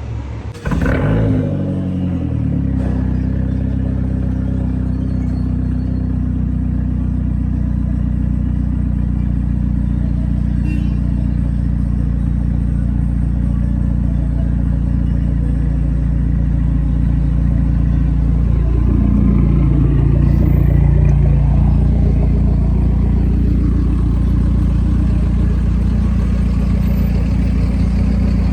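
Car engine catching about a second in and then idling steadily, with a brief change in engine speed about two-thirds of the way through.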